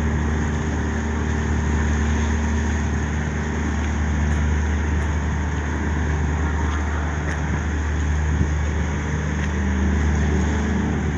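A large engine running steadily with a low hum, over a constant outdoor background rumble.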